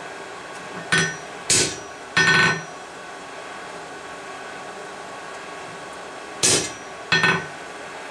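Hammer blows on a steel anvil with a ringing tone, a group of three strikes about a second in and two more near the end, over a steady background hiss.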